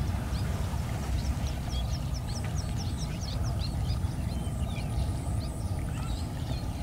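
Small birds chirping in runs of quick, high, downward-sliding calls over a steady low rumble.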